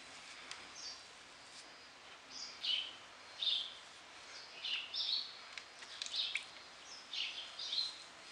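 Small bird chirping repeatedly: short high chirps, often a higher note dropping to a lower one, about once a second over a faint hiss.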